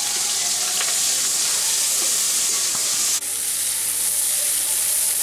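Prawns frying in hot oil in a metal wok, a steady sizzle, as a spatula stirs them. The sound drops for a moment a little after three seconds, then carries on.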